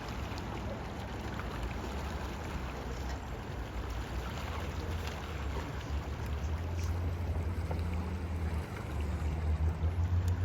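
River water rushing steadily, with wind buffeting the microphone in a low rumble that grows stronger and gustier in the last few seconds.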